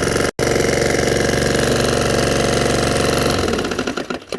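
2020 PowerSmart self-propelled mower's small engine running with a rod knock, the result of being run with little to no oil. Near the end it winds down, the beat slowing as it stops.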